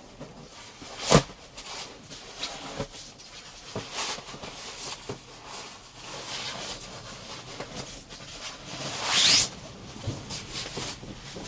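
Handling noises in a small space: a sharp click about a second in, scattered light knocks and rustles, and a short rasp rising in pitch near the end.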